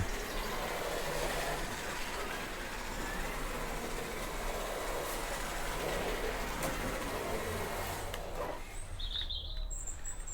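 Remote-control toy car's electric motor and gears whirring steadily as it drives, stopping about eight seconds in. A few short bird chirps follow near the end.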